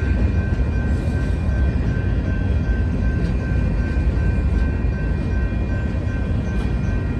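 Freight train led by two GE diesel locomotives, running with a steady low rumble. A high tone pulses about two to three times a second throughout.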